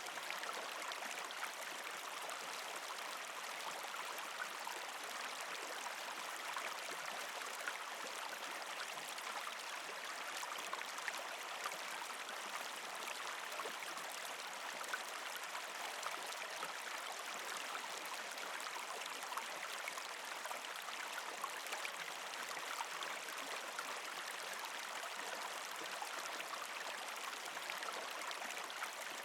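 Creek water running and trickling over rocks between patches of ice, a steady flowing sound with small splashy ticks.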